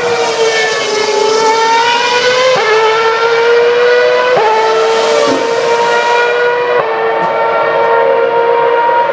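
A 2012 Formula One car's 2.4-litre V8 engine at high revs under acceleration. Its high-pitched note climbs slowly and drops sharply at three upshifts.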